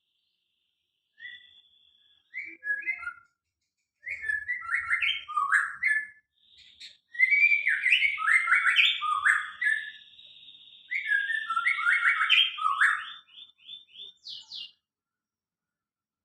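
A songbird singing in phrases of quick falling notes, with a long high steady trill running under the middle phrases and a fast run of notes to finish.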